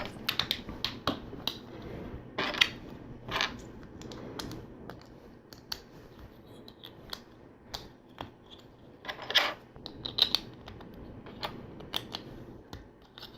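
Plastic LEGO pieces clicking and clattering as they are picked from a loose pile and handled, with irregular sharp clicks and a few short rattling bursts.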